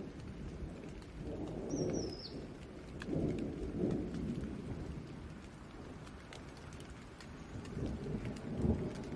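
Steady rain falling, with low rumbles of distant thunder that swell up three times, the last and loudest near the end.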